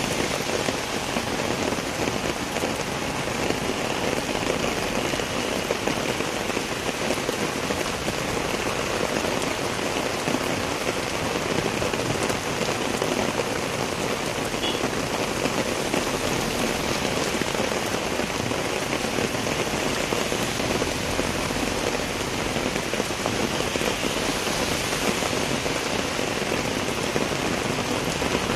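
Steady rain falling on a wet road: an even, unbroken hiss.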